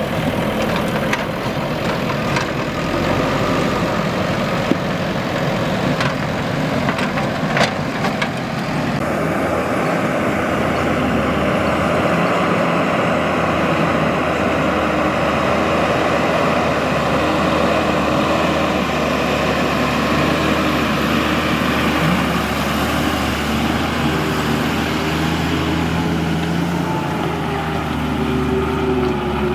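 Diesel engine of heavy earthmoving machinery running steadily, with a few sharp knocks in the first several seconds and a steadier engine tone after about nine seconds.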